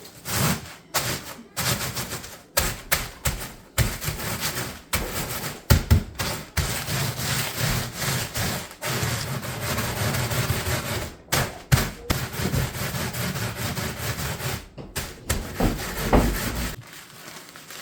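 Cornflakes being crushed for a breading, crunching and rustling in repeated uneven strokes that stop about a second before the end.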